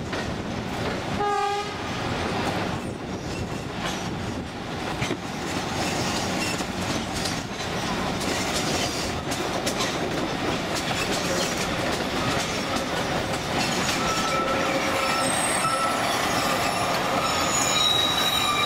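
Narrow-gauge sugar-cane train heard from an open passenger car, running with steady wheel clatter on the track. A short horn blast sounds about a second in. Thin wheel squeal builds in the last few seconds as the train takes a curve.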